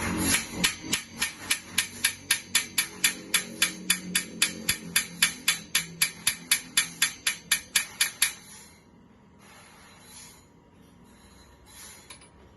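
Rapid, evenly spaced hammer blows on a steel sawmill band saw blade, about four strikes a second for some eight seconds, then stopping. This is part of repairing a crack in the blade.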